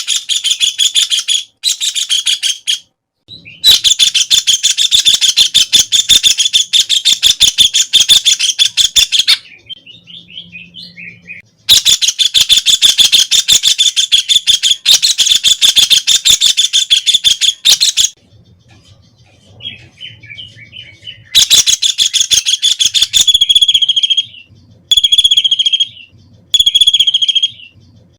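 White-throated kingfisher calling: loud, rapid rattling trills several seconds long, separated by short pauses with softer chatter. Near the end it gives a few short separate notes.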